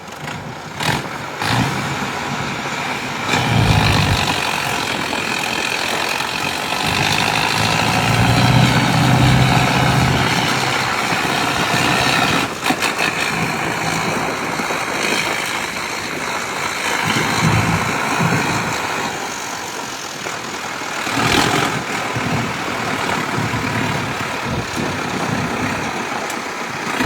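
Tractor engine running, its sound swelling and easing several times as it is revved, with a few sharp knocks.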